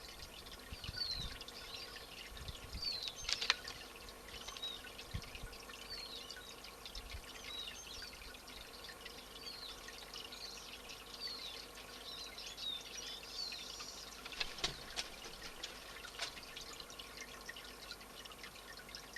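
Small wild birds calling: short, high chirps repeated about once a second, over a steady hiss, with a few sharp clicks.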